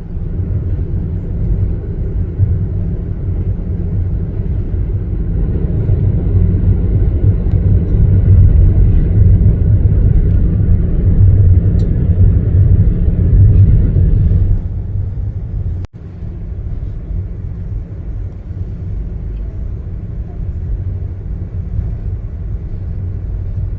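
Steady low rumble of a passenger train car running on the rails, heard from inside the car. It swells through the middle, eases about two-thirds of the way through, and breaks off for an instant before carrying on at a lower level.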